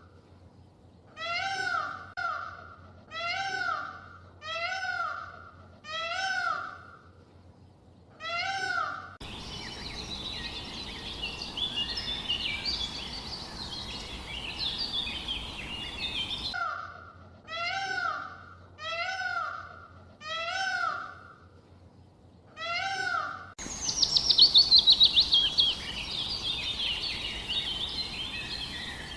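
An animal's short, pitched call repeated about once a second, alternating with stretches of songbird chirping over a steady outdoor hiss. Near the end there is a quick falling trill of bird song.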